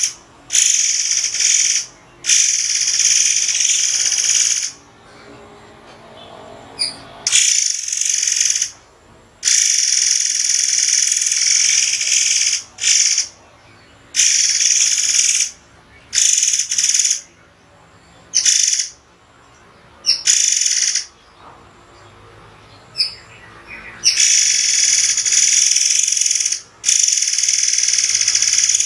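Murai air bird calling in sharp, shrill, high-pitched bursts, each from a fraction of a second to about three seconds long, with short pauses between them.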